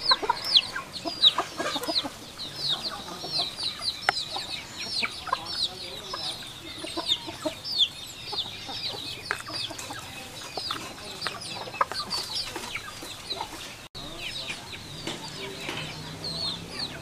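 Birds cheeping: a dense, continuous run of short, high chirps, each falling in pitch, several a second.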